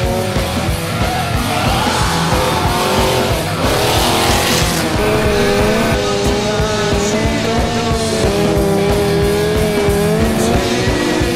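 A car drifting, tires squealing in long wavering screeches with engine noise, over loud background music with a steady beat.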